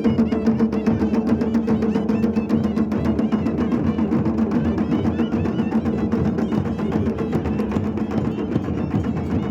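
Traditional Himachali festival band music: rapid, dense drumming under steady held notes and a wavering high melody.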